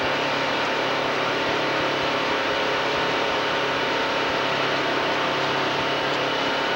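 Truck engine running steadily under road noise, with a constant hum and no change in pace.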